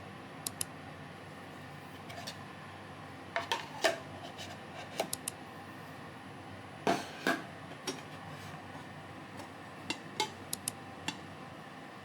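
Dishes and cutlery clinking now and then as they are handled: a few sharp clinks, some in quick pairs, over a steady low hiss.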